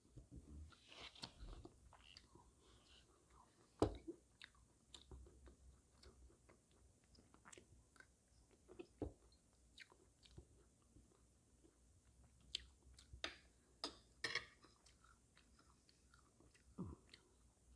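Faint close-up chewing of canned silkworm pupae (bondaegi), with scattered sharp clicks and smacks.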